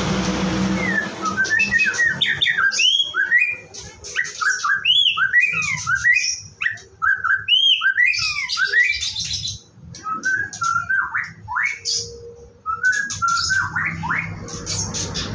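White-rumped shama singing: a fast run of varied, whistled phrases that sweep up and down in pitch, broken by short pauses, with light clicks scattered among them.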